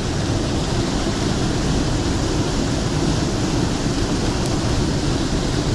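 Steady rushing of a mountain stream's flowing water, an even loud hiss with no breaks.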